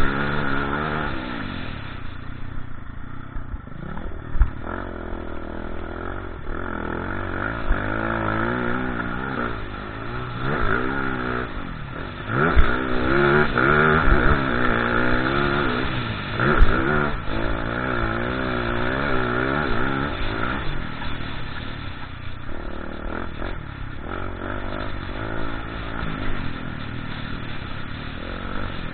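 Motocross dirt bike engines revving up and down again and again as they are ridden through the throttle, with a few sharp knocks along the way.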